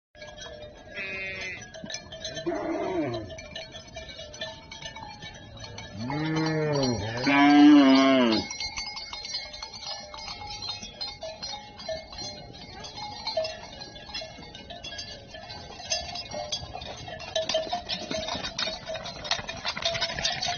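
Cowbells clanking steadily as livestock move, with several cattle moos: a short one about a second in, one near 3 s, and two louder, drawn-out moos about halfway through.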